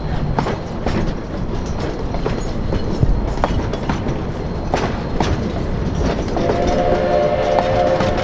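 Train rolling along the rails, a steady rumble with the click of wheels over rail joints; about six seconds in, a locomotive whistle starts blowing, several tones sounding together as a chord and held to the end.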